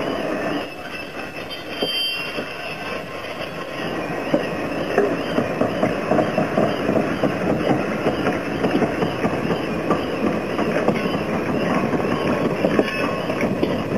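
Passenger coaches rolling slowly through a mechanical brush carriage washer: a steady rush of spinning brushes and water spray, with frequent short wheel clicks and a wavering high squeal.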